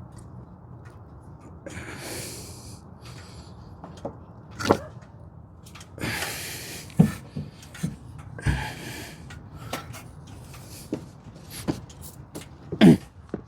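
Hands working on spark plug wires at a V8's distributor cap: scattered clicks and snaps as the wire boots are pushed home, with several short bursts of heavy breath.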